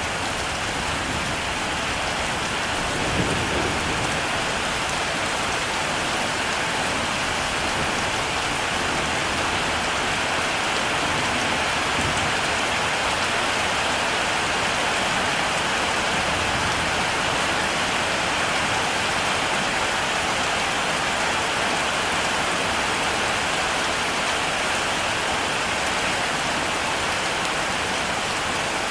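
Heavy rain falling steadily in a thunderstorm, with a brief low rumble of thunder about three seconds in.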